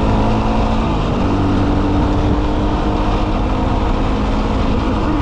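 Dual-sport motorcycle engine running at a steady speed while riding, under a continuous low rush of wind noise.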